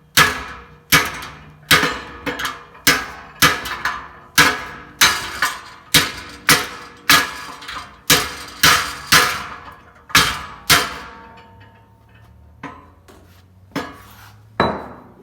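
Sheet-metal patch panel being struck with a body hammer: about twenty ringing metallic blows, roughly two a second, stopping about eleven seconds in, then one more blow near the end.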